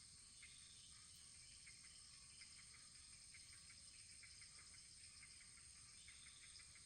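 Wood fire burning faintly, with small irregular crackles over a steady soft hiss.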